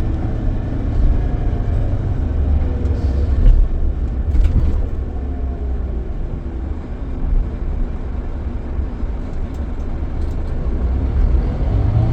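Scania K440EB coach running on the road, heard from inside the cabin: a steady low engine and road rumble. A couple of knocks come about four seconds in, and the engine note rises near the end as the coach picks up speed.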